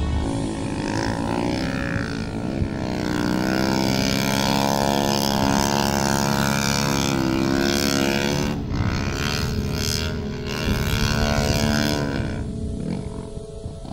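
Yamaha YZ450F snowbike's 450 cc four-stroke single-cylinder engine revving, its pitch rising and falling several times, then fading near the end.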